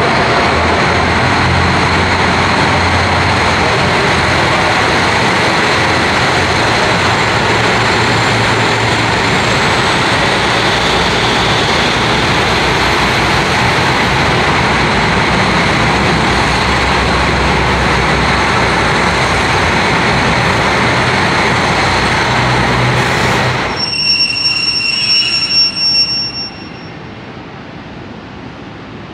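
Train running on rails beside a station platform: a loud, steady rumble that cuts off suddenly about three-quarters of the way through, followed by a couple of seconds of high-pitched squealing.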